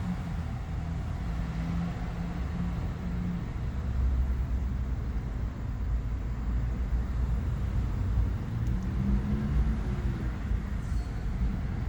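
Steady low engine and road rumble heard from inside a moving car.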